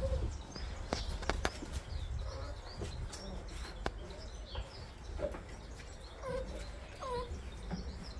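Small birds chirping in short, high calls, with a few lower squeaky calls and scattered light clicks.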